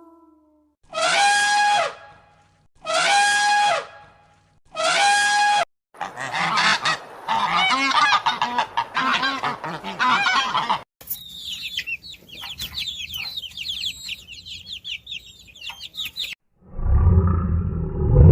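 A sequence of separate animal-call clips. It opens with three honking calls of large waterfowl, each about a second long and evenly spaced. Then come several seconds of dense, overlapping calls, about five seconds of high, rapid bird twittering, and near the end a loud low sound.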